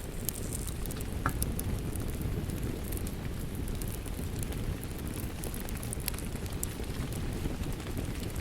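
Wood fire crackling with scattered sharp pops and snaps over a steady low rush of rain.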